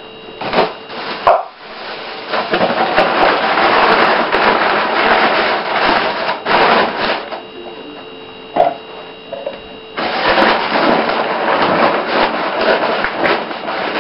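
Rustling and scraping with a few sharp knocks, from flour being scooped out of its bag and tipped onto a kitchen scale.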